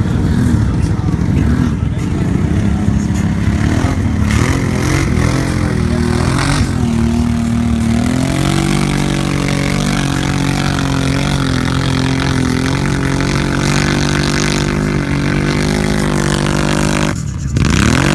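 Kawasaki Teryx 4 UTV's V-twin engine revving hard as the machine tries to drive itself out of deep mud where it is stuck. The pitch rises and falls for the first several seconds, is then held high and steady, and drops away abruptly near the end.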